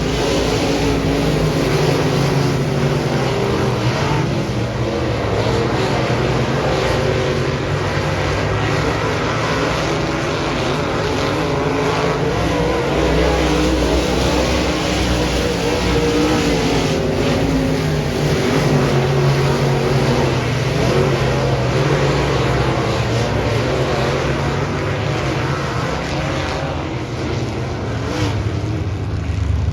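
Dirt modified race car engine running hard during a heat race, its revs rising and falling through the laps, with a brief dip near the end before it picks up again.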